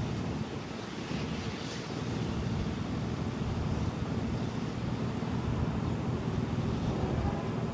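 Steady low engine rumble, with wind on the microphone.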